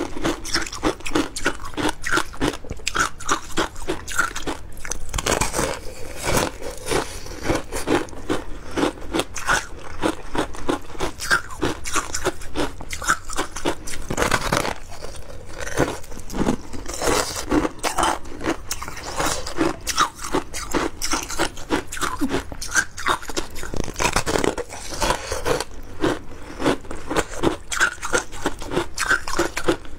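Frozen passion fruit shaved ice being bitten and chewed, a continuous run of crisp crunches, several a second.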